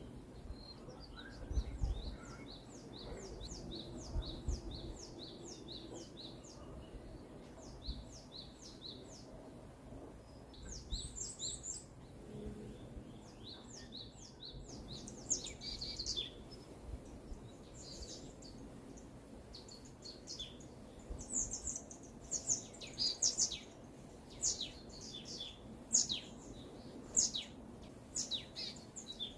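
Songbirds singing: a quick, even series of high, down-slurred chirps, about three a second, for roughly the first ten seconds, then louder, scattered sharp chirps in the second half, over a faint steady background hiss.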